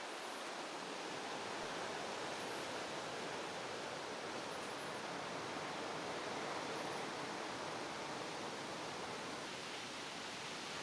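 Steady, even outdoor hiss with no distinct events, and faint high chirps about every two seconds.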